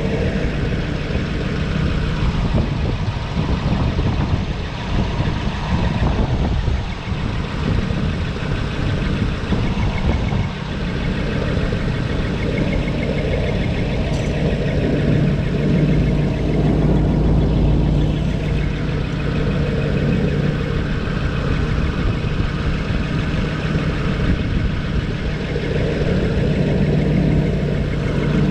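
Truck engine idling steadily, heard close up.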